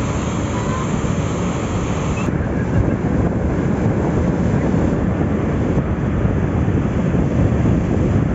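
Tour boat under way: its engine running steadily under wind buffeting the microphone.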